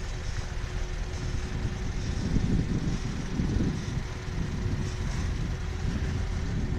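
Lada Niva on the move, a loud uneven low rumble with a faint steady tone running beneath it.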